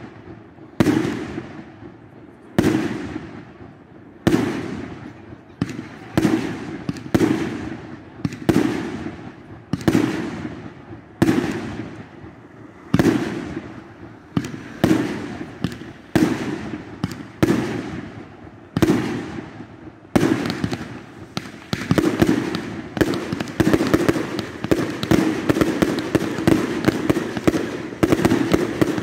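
Fireworks going off: aerial bursts bang one after another, about one every second and a half, each trailing off. From about twenty seconds in, the bangs come thick and fast in a continuous barrage.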